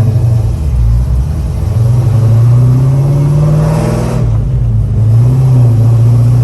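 Cutlass's engine running during its first tune-up, the revs rising about two seconds in, dipping briefly and picking up again. A short rush of noise sits over it around four seconds in.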